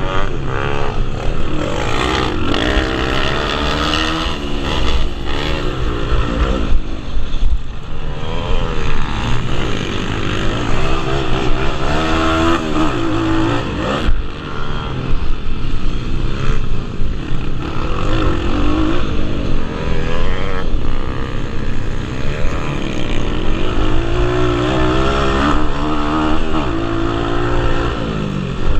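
Several pit bike engines revving hard and shifting as the bikes race, their pitches overlapping and rising and falling continually.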